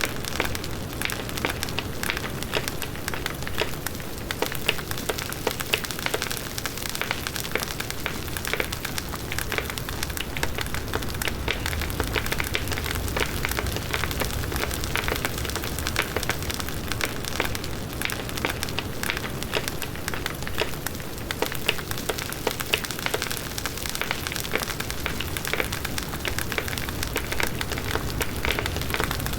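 Large wood bonfire burning: dense, continuous crackling and popping of the burning wood over a low rush of the flames.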